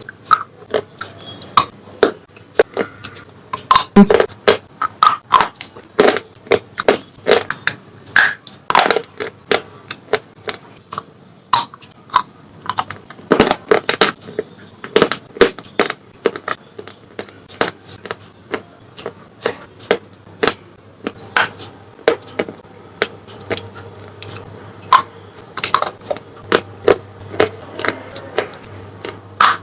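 Close-up mouth sounds of slate pencils being bitten and chewed, with sharp, irregular crunches coming a few times a second.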